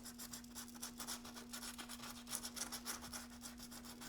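80-grit sandpaper on a rubber hand sanding block rubbed in quick back-and-forth strokes over curb rash on an aluminium alloy wheel rim: a faint, rhythmic scratching.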